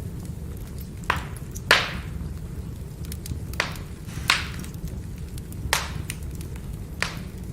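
Firewood burning with a steady low rumble, crackling with small ticks and six sharp pops spread through, the loudest about a second and a half in.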